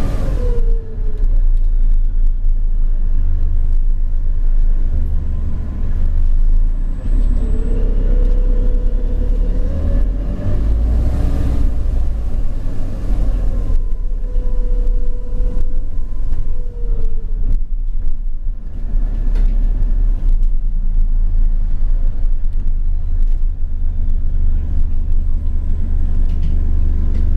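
Alexander Dennis Enviro400 BAE hybrid double-decker bus under way, heard from inside: a steady low rumble, with a humming tone that comes in twice for a couple of seconds, holds, then slides in pitch.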